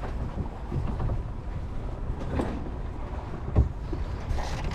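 Strong wind rumbling on the microphone aboard a sailboat under way, with a couple of short knocks of gear about halfway through and near the end.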